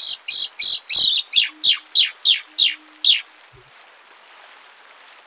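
Songbird singing a rapid series of loud notes, about three a second: the first harsh and buzzy, the later ones quick downward-sweeping whistles. The song stops a little past three seconds in, leaving faint hiss.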